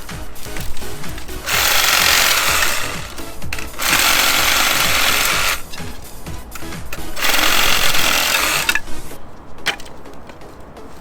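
Makita 10.8 V cordless reciprocating saw (JR104DZ) with a pruning blade cutting thin branches, in three runs of about two seconds each with short pauses between.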